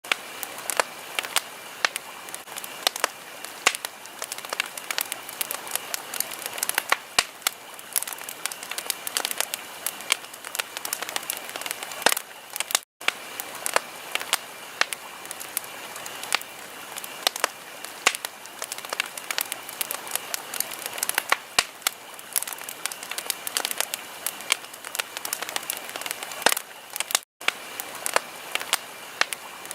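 Wood fire crackling in a fireplace: dense, irregular sharp pops and snaps over a steady hiss. The sound cuts out for an instant twice, about halfway through and near the end.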